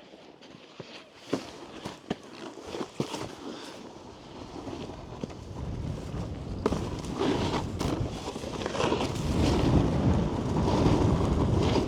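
Snowboard sliding and scraping over packed snow, a rough rumble that grows steadily louder from about six seconds in as the board picks up speed, with wind on the microphone. A few sharp clicks or knocks in the first three seconds.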